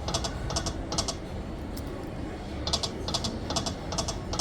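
Reel-stop clicks of an electronic poker machine (pokie), one sharp click for each reel stopping, about half a second apart. A run ends about a second in, and a new run of five follows about two seconds later as the next spin's reels stop one by one.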